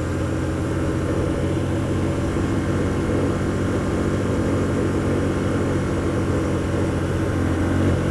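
Hyosung GT125R's 125 cc V-twin engine running at a steady pitch while the motorcycle cruises, with a steady rush of road and wind noise over it.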